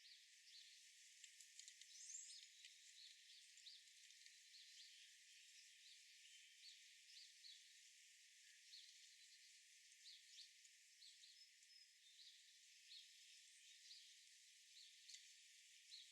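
Faint outdoor ambience: scattered short bird chirps over a steady hiss, with one brief rising chirp about two seconds in. All the low sound is cut away, leaving only a thin, high hiss.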